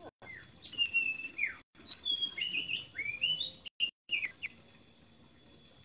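A bird singing: a quick run of clear whistled notes sliding up and down, which stops about four and a half seconds in.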